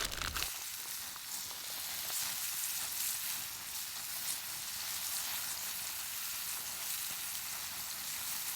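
Steak frying in a hot pan, a steady sizzle.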